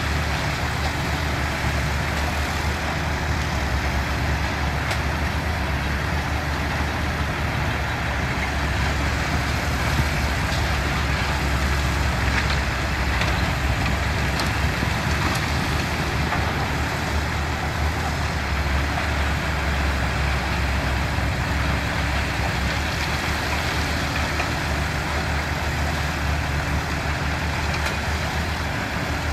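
Diesel engines of heavy earthmoving machines running steadily with a deep low drone, with a few faint knocks partway through.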